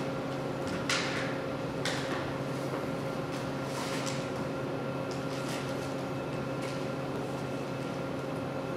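Steady electrical hum of room tone, with a few soft, brief rustles or knocks about one, two and four seconds in.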